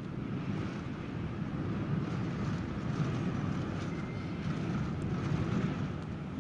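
Hurricane wind and storm-driven water: a steady rushing noise with gusts buffeting the microphone.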